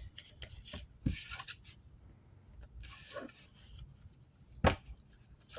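Faint handling sounds in a small room: a couple of soft rustles and one sharp knock near the end.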